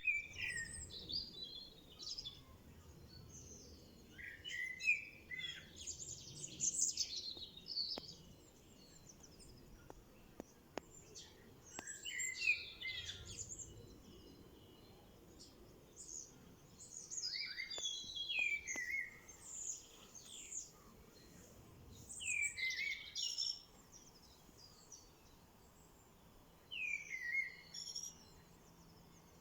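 Songbirds singing: bursts of high, quick notes about one to three seconds long, with some phrases falling in pitch at the end, repeated every four to five seconds over a faint steady hiss.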